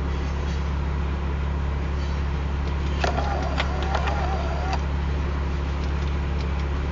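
Steady low vehicle rumble heard from inside a car cabin, with a faint voice briefly in the middle.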